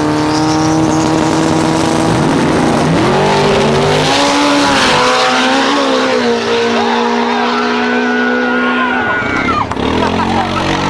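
A race car's engine is revved hard and held at high revs. Its pitch climbs in steps and holds level, and it drops off about nine seconds in.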